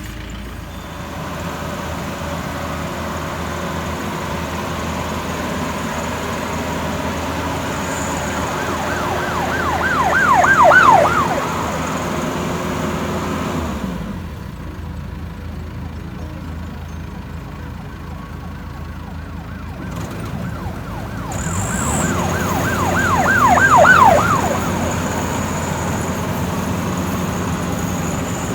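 Rice combine harvester's engine running steadily, with two short bursts of a fast warbling siren, about ten seconds in and again about thirteen seconds later.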